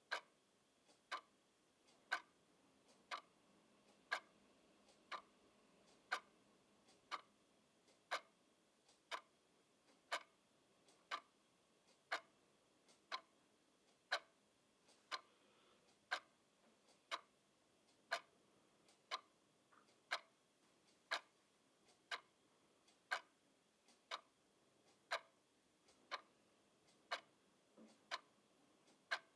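A clock ticking steadily, about one tick a second, the ticks alternating slightly louder and softer.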